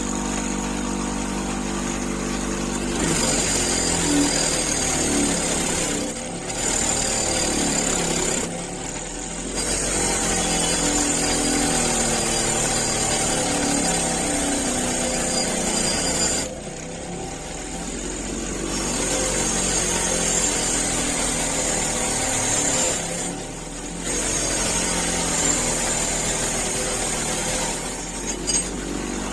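Electric power tool running on the rusty wrench: it spins freely with a steady tone at first, then is pressed into the work, which makes it louder and rougher with a wavering pitch. It is eased off a few times before biting in again.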